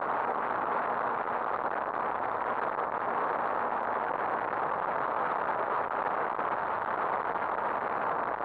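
Steady rushing noise of a motorcycle on the move, wind and road noise on the rider's camera microphone, even throughout with no distinct events.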